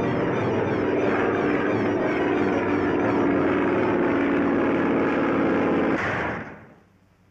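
Cartoon sound effect of a propeller plane's engine running steadily, then cutting off about six and a half seconds in.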